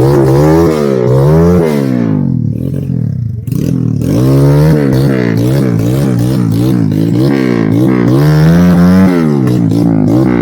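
Trail motorcycle engine revving up and down over and over, its pitch rising and falling about once or twice a second.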